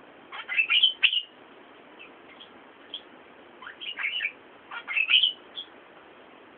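Small birds chirping in three quick bursts of short, downward-sliding chirps, about a second in, around four seconds and around five seconds, over a faint steady hiss.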